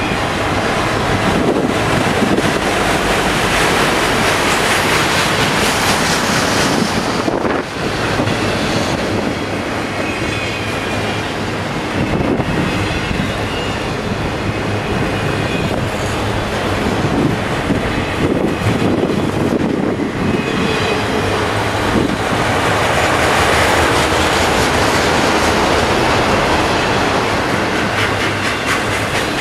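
Freight train autorack cars rolling past: a loud, steady rumble and rattle of steel wheels on rail, with a run of rhythmic wheel clicks over rail joints near the end.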